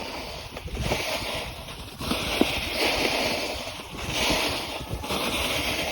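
Skis swishing across snow in a series of turns, a hissing swoosh every second or two, over wind rumble on the microphone.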